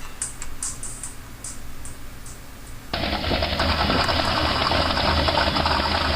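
The last fading strokes of a song's cymbal, then about halfway an abrupt cut to a truck engine idling with a steady low rumble and clatter.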